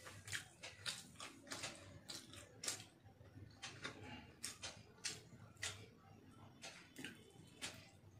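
Close mouth sounds of a person chewing, lips smacking in a quick irregular run of wet clicks, over a low steady hum.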